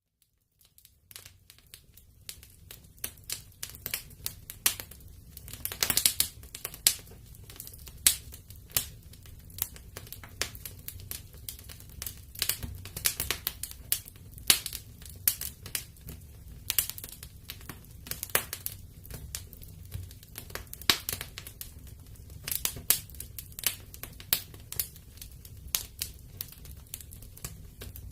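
Wood fire burning in a fireplace, crackling with frequent irregular sharp pops over a steady low rumble of the flames. It rises out of a brief silence at the very start.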